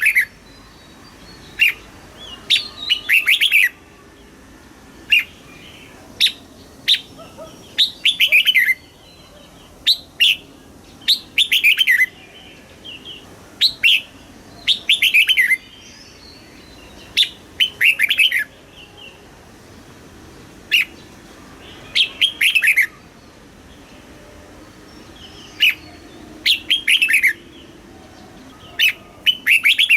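Red-whiskered bulbul singing: short, loud phrases of quick falling notes, repeated every second or two.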